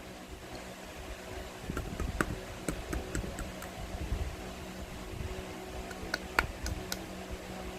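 Steady low hum of a fan or appliance under a scattering of small clicks and sticky pops from acrylic-painted slime being handled and mixed, with a cluster of sharper clicks near the end.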